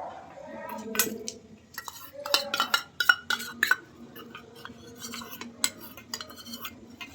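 A spoon clinking and scraping against dishes in a run of quick, irregular clicks and taps.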